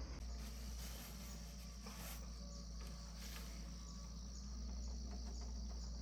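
Insects trilling in a steady high-pitched drone over a low rumble, with a few faint knocks.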